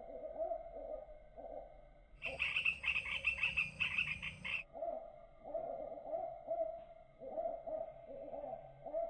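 Birds calling. A low, pulsing call repeats over and over, and about two seconds in a louder burst of rapid, high-pitched chattering lasts about two seconds.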